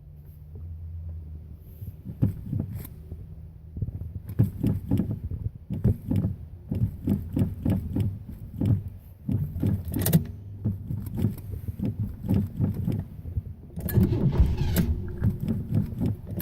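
Car engine being cranked over on the starter in a long run of rapid, uneven pulses without catching, the sign of a hard start. The cranking begins about two seconds in and gets louder near the end.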